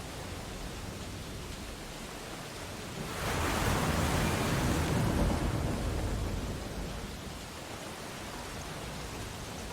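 Ocean waves on a beach: a steady wash of surf, with one wave breaking about three seconds in, swelling to its loudest a couple of seconds later and fading away.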